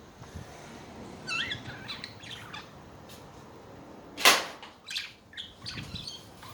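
Budgerigars chattering with quick warbling chirps, and a loud sharp click about two-thirds of the way through, followed by a few smaller clicks and chirps.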